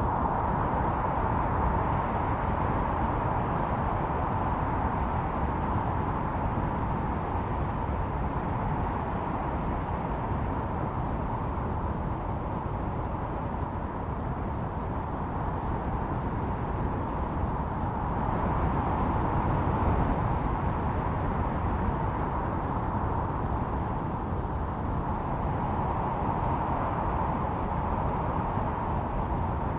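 Snowstorm wind blowing steadily, a howling whistle held near one pitch over a low rumble, swelling and easing every several seconds.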